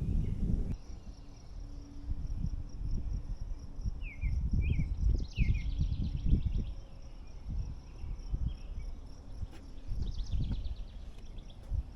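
Footsteps thudding along a dirt forest trail, with an insect chirping in a steady, even, high-pitched pulse. A few short bird chirps come in around the middle and again near the end.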